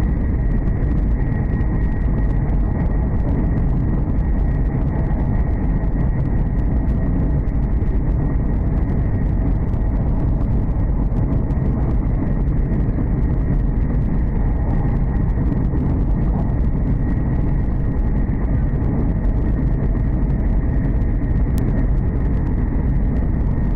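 Hokuriku Shinkansen train running at speed, heard from inside the passenger cabin: a steady low rumble with a thin high whine held at one pitch.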